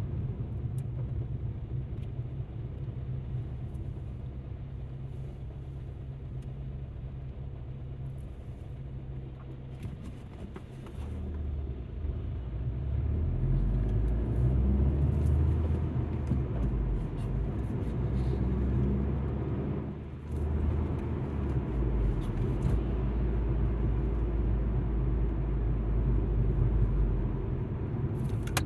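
Alfa Romeo MiTo being driven, heard from inside the cabin: a steady low engine and road rumble. It grows louder about eleven seconds in and drops briefly around twenty seconds before picking up again.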